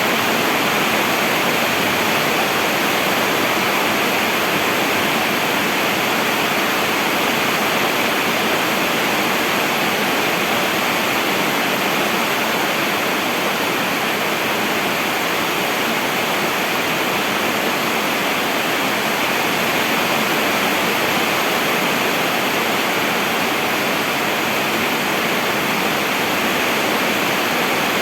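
Steady heavy rain falling, a dense, even hiss with no breaks or single drops standing out.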